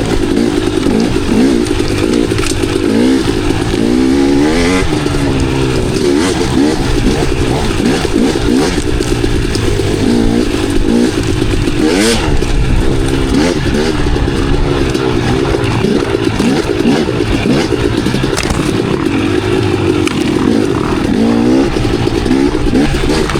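Dirt bike engine revving up and down continually with the throttle while riding, with a single sharp knock about twelve seconds in.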